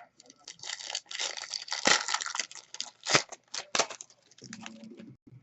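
Trading cards and plastic card wrapping being handled: a run of crinkling, scraping rustles and small clicks that thins out about four seconds in.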